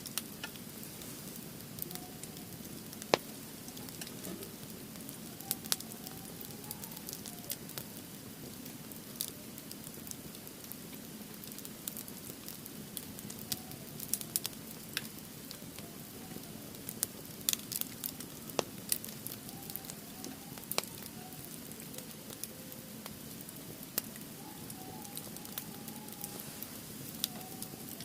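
Wood fire burning in a fire pit: a low steady rush of flames with sharp crackles and pops at irregular intervals.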